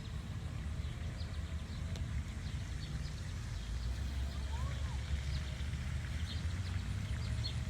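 Outdoor ambience: a steady low rumble of wind on the microphone, with faint, scattered high chirps.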